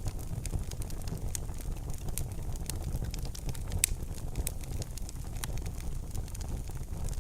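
Wood fire in a fireplace crackling, with scattered sharp pops over a low steady rumble, one louder pop near the middle.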